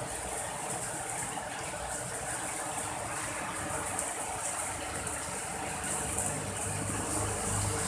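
Rain falling steadily, a continuous even hiss of water.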